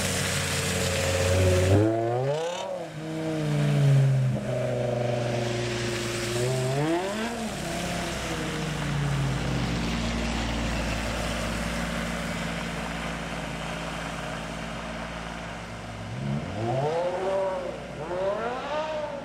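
BMW M cars pulling away on a wet road: a silver M5 Touring's V10 and a black F82 M4's engine revving up in rising sweeps with breaks for gear changes, about two seconds in, around seven seconds and twice more near the end, over the steady hiss of tyres on standing water.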